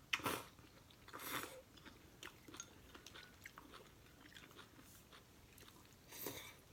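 Close-up eating of instant noodles: three short slurps, near the start, about a second in and near the end, with soft chewing and small mouth clicks between them.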